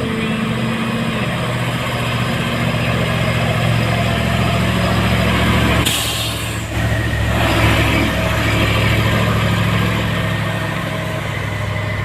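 Heavy diesel truck engine running under load at low, steady revs, pulling uphill. About six seconds in comes a short sharp hiss of air, followed by a weaker rush of noise.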